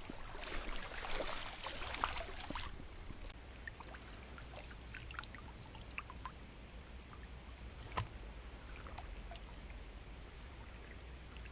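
Small stream flowing and trickling, busier and louder in the first couple of seconds, with a few faint ticks and one sharp click about eight seconds in.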